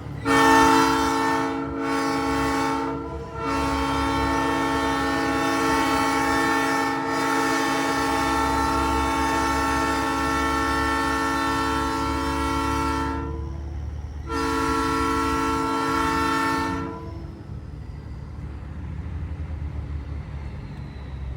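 Nathan Airchime train horn mounted on a semi truck, blown as a multi-note chord in four blasts: two short ones, a long one of about ten seconds, then one of a couple of seconds. The truck's diesel engine runs underneath throughout.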